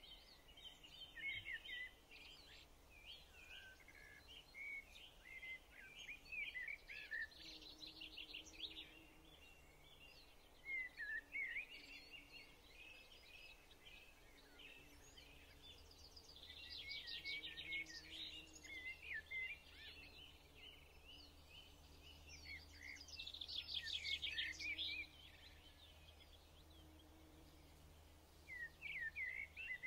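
Faint birdsong: small birds chirping and trilling in repeated short bouts, over a quiet steady background.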